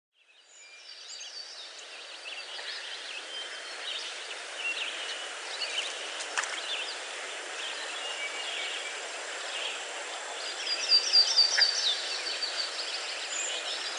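Several birds chirping and singing over a steady rushing background noise, with a quick run of bright, loud notes a few seconds before the end.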